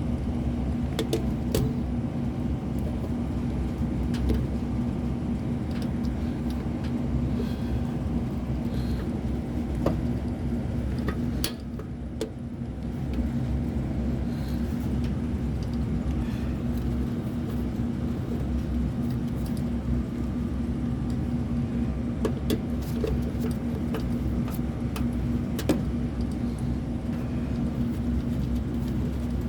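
Steady low machine hum with a constant tone, with scattered light clicks and taps on top.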